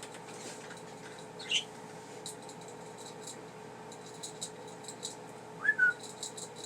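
Pet budgerigars giving scattered soft clicks and short chirps, with two louder chirps about a second and a half in and again near the end, over a steady background hum.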